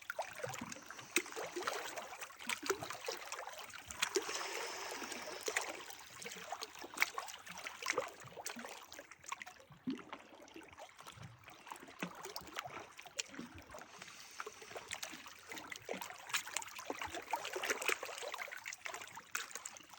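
Water trickling and gurgling in a small stream: a steady splashing hiss full of small drips and splashes.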